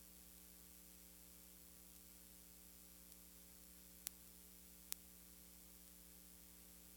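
Near silence: a steady electrical hum under a faint hiss, broken by two sharp clicks about four and five seconds in.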